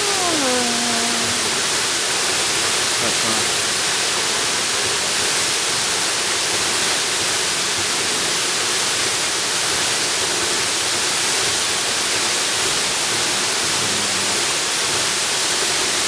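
Steady rushing of a jungle waterfall. Right at the start a short call with overtones glides downward over it.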